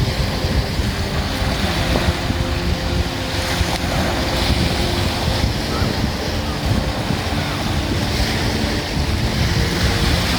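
Sea surf breaking and washing on the shore, with wind buffeting the microphone.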